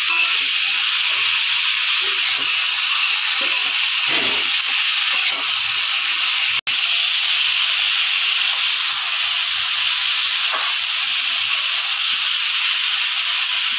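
Potato and ridge gourd pieces sizzling steadily in mustard oil in a wok while being stirred and fried down with ground spices (the kasha stage of a Bengali curry). The sizzle cuts out for an instant about halfway through.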